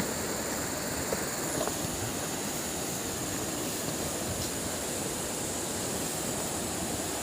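Steady rush of falling water from a waterfall, an even noise that does not let up, with a thin steady high-pitched whine above it and a few faint clicks.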